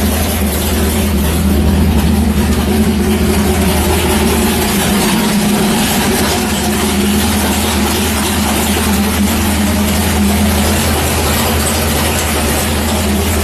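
Big-block Ford V8 idling steadily, warming up its fresh oil after an oil change.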